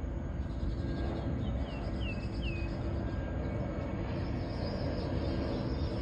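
A bird calling: three quick falling notes a little over a second in, over a steady low background rumble.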